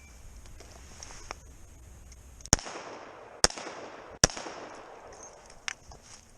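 Three revolver shots, a little under a second apart, each followed by a short echo, as a competitor fires on a timed stage. A couple of fainter pops come before and after them.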